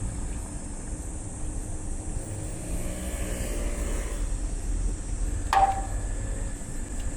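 Road bike riding through traffic, with a steady low rumble of wind on the microphone and road noise. A motor vehicle passes about three to four seconds in, and a sharp click with a brief ring comes a little after five seconds.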